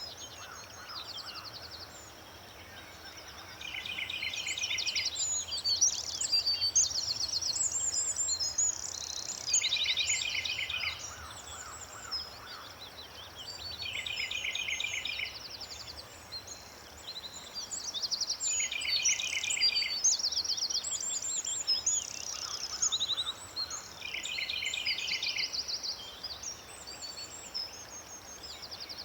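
Several songbirds singing together: a rapid trilled phrase recurs about every five seconds beneath a busy run of higher chirps and whistles.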